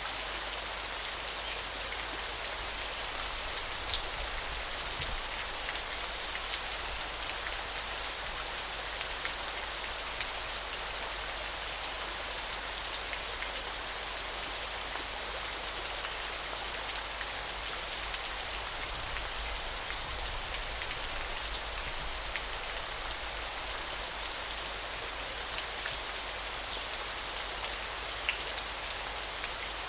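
River water flowing in a steady, dense rush. Over it comes a thin, high-pitched call in repeated phrases of one to two seconds each, about a dozen times, stopping a few seconds before the end.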